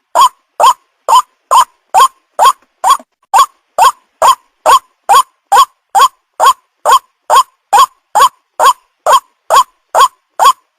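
Recorded white-breasted waterhen (ruak-ruak) call played as a bird lure: a short upward-sliding note repeated steadily a little over twice a second, every call alike.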